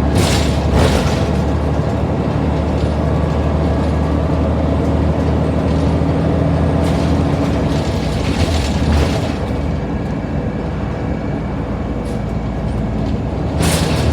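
Diesel engine of a Scania N94UD Omnidekka double-decker bus running under way, a steady low drone that eases off about nine seconds in. Brief rattles and knocks come through about a second in, around seven to nine seconds, and near the end.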